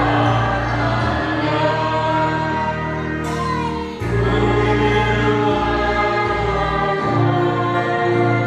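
A choir singing a hymn with instrumental accompaniment over sustained bass notes, with a brief break between phrases about four seconds in.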